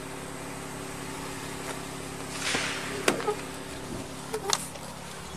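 Roadside sound with a car engine idling in a steady low hum, a brief rush of a passing vehicle about two and a half seconds in, and a few light knocks and clicks.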